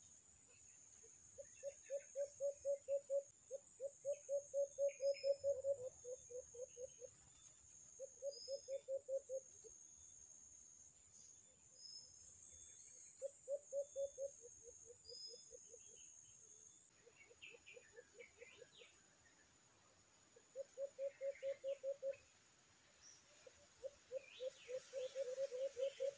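Caged birds calling in runs of quick, evenly spaced low notes, about eight to twelve notes per run. The runs come every few seconds, and near the end two or more birds overlap.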